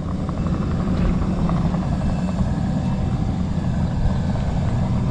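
Engine of a small bucket machine running steadily as it backs up, dragging a load on a chain.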